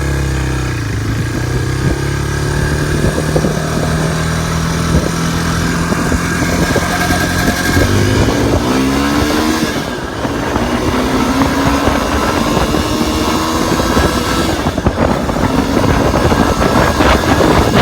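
Suzuki 350 dirt bike's single-cylinder engine running under way, its pitch rising and falling several times as the rider works the throttle and gears.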